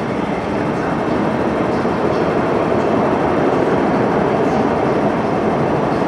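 Hong Kong MTR Q-train electric multiple unit running, a steady rumble of wheels and traction equipment that grows slightly louder about two seconds in.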